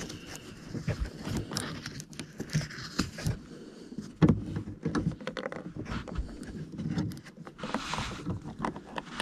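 Irregular small clicks, knocks and scrapes of hands working a car's plastic light fitting and its wiring cable loose and back in place.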